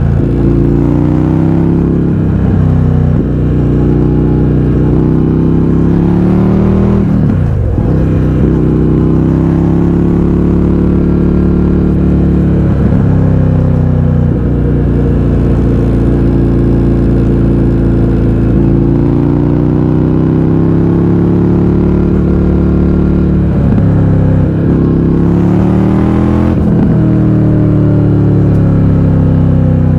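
Indian FTR 1200's V-twin engine running loud through an Akrapovič exhaust with the baffles removed. Its pitch holds steady for stretches, then dips sharply and climbs back about five times, with a slower rise and fall in the middle.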